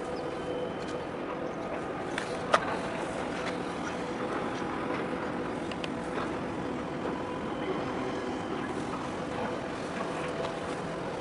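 Steady mechanical drone with a held hum, and a single sharp click about two and a half seconds in.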